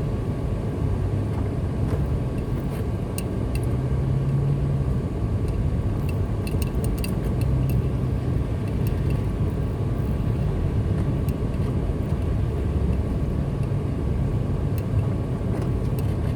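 Car driving at a steady speed: a constant low engine hum with tyre and road noise, and a few faint scattered ticks.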